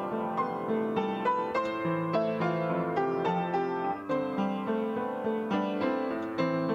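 Piano music: a steady flow of notes, several a second, with no speech over it.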